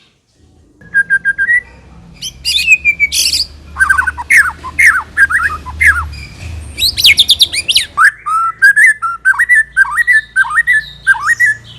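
White-rumped shama (murai batu) singing a loud, varied song of whistled phrases and fast runs of repeated down-slurred notes, starting about a second in.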